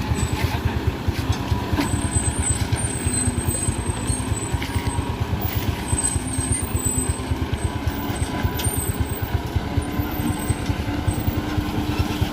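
Diesel engine of a Mitsubishi light truck running steadily under load, a continuous low rumble of rapid firing pulses.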